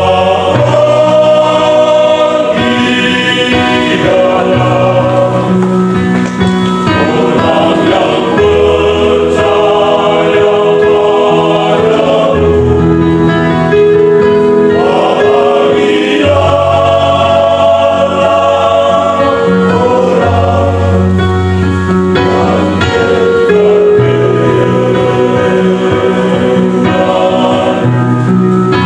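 Vocal group singing a Christian gospel song in several-part harmony, with a bass line that shifts every couple of seconds.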